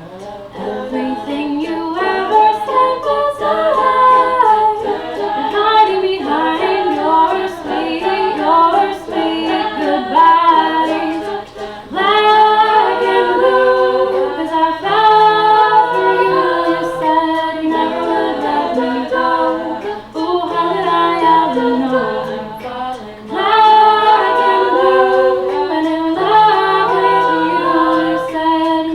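A cappella group singing with no instruments: a female lead voice over several backing voices holding chords that shift every few seconds.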